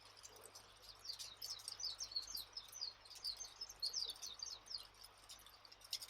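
A small bird chirping in a quick run of short, falling high notes from about a second in until about five seconds, over the faint crackle and pops of a wood fire.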